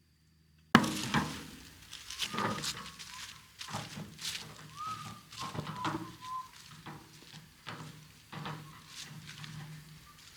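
Irregular knocks and thunks of garden work, starting suddenly about a second in, with a few short, high chirps among them.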